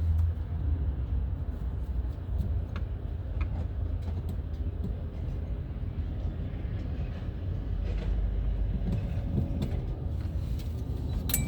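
A steady low background rumble, with a few light clicks scattered through it.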